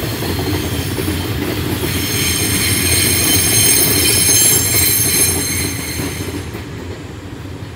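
Freight train of hopper wagons rolling past, its wheels rumbling steadily on the rails. A high squeal from the wheels comes in about two seconds in. The sound fades away as the last wagons go by.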